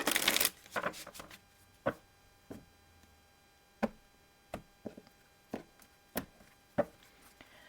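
Oracle cards being shuffled and handled: a short rustling burst at the start, then a string of sharp, separate taps and flicks of cards, over a faint steady hum.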